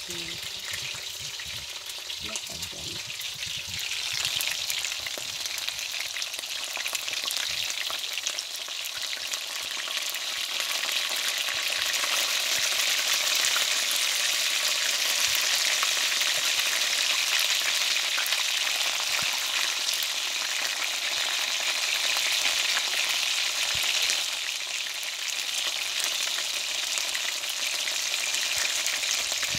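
Chicken breast strips sizzling steadily as they fry in oil in a wok, nearly cooked and browning; the sizzle grows louder a few seconds in. A few light knocks sound near the start.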